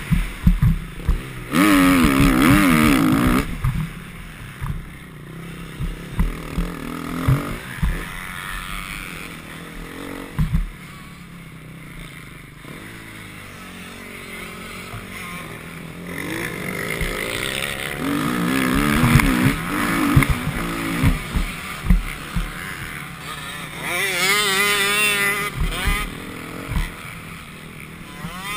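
Motocross bike engine revving hard and easing off in repeated bouts, pitch sweeping up and down, over a low rumble with scattered sharp knocks. The strongest bursts of revving come a couple of seconds in and again near the end.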